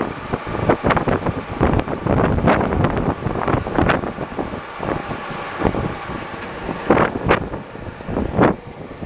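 Rubber-tyred Alstom NS-74 metro train running, a steady rumble with frequent irregular knocks and rattles.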